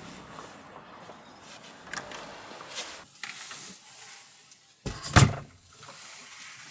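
Low vehicle rumble cutting off about three seconds in, then a door shutting with one heavy thud about five seconds in.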